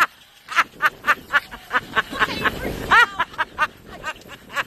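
A person laughing under their breath in short, rapid bursts, about four a second, with one voiced rise and fall about three seconds in.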